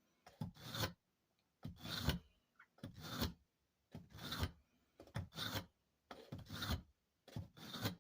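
Steel hatchet blade drawn repeatedly through a small fine ceramic sharpener: about seven separate strokes, each about half a second long, roughly once a second. This is the fine finishing pass on the hatchet's edge.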